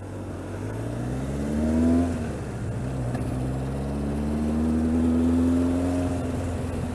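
Yamaha XJR1300's inline-four engine under way, the revs climbing for about two seconds, dropping sharply, then building slowly again and easing off near the end.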